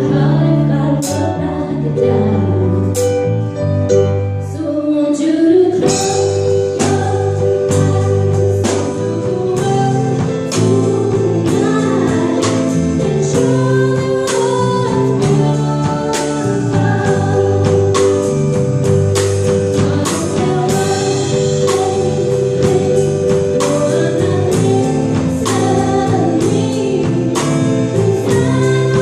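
Live band playing a pop cover, with a singer holding long notes over a steady bass line and a regular drum beat.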